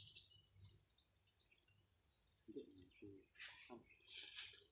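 Faint steady high-pitched insect buzzing, with a few faint short calls about halfway through.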